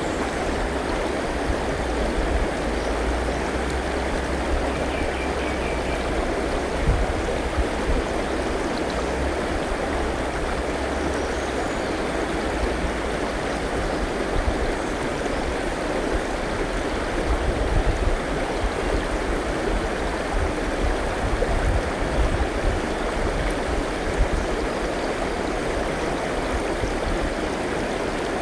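Forest river flowing in a steady rush of water, with a few faint, brief bird chirps above it.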